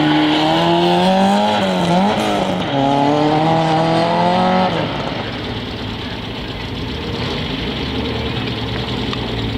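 Rally car engine revving hard under acceleration on a gravel course: the note climbs, dips briefly about two seconds in like a gear change, and is held high until about five seconds in. Then it falls away to a fainter engine sound as the car drives off.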